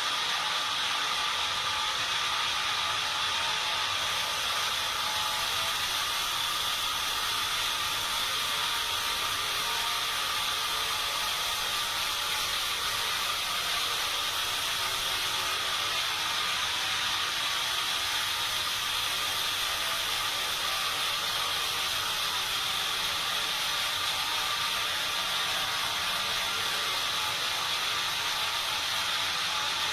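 Sawmill machinery running steadily: a constant hiss-like noise with a high whine held at one pitch, with no cuts starting or stopping.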